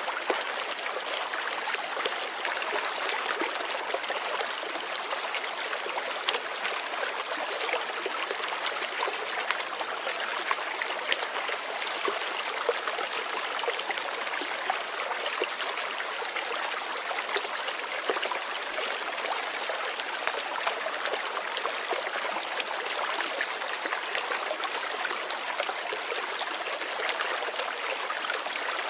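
Light rain falling steadily: an even hiss of many fine drops pattering without pause.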